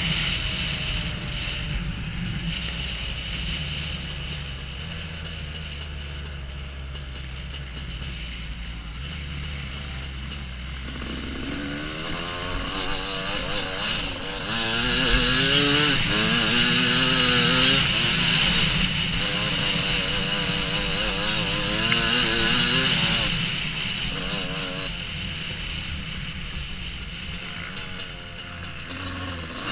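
Husqvarna WR250 two-stroke dirt bike engine, running low and steady at first, then revving up and down repeatedly, with its loudest stretch in the middle before easing off.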